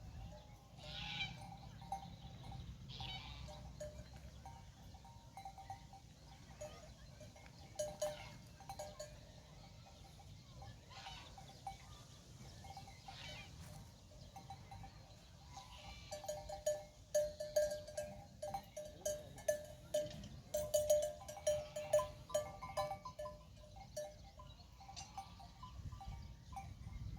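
A grazing flock with bells: animals bleating and bells clanking, the clanking coming thicker and louder for several seconds past the middle.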